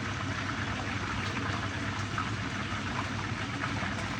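Fish frying in hot oil in a saucepan: a steady sizzle with small crackling pops.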